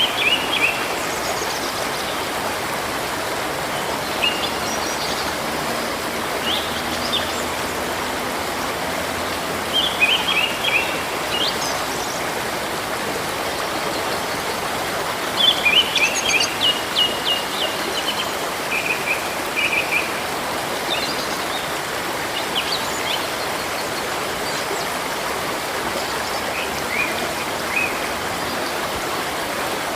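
A river flowing steadily, with small birds singing over it in short phrases of quick high chirps every few seconds, the busiest spell about halfway through.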